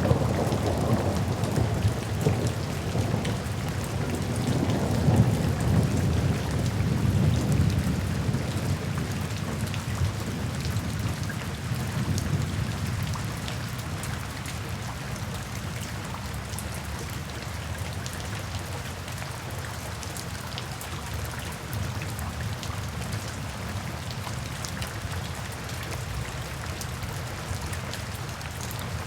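Steady rain with drops pattering on surfaces, and a low rolling rumble of thunder through the first half that slowly dies away.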